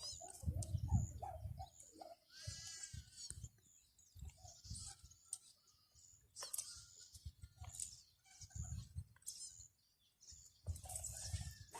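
Faint, scattered animal calls with bird chirps, coming and going in short bits.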